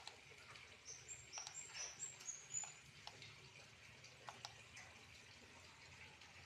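Faint trickling pond water, with a quick series of short high chirps about a second in and a few sharp clicks.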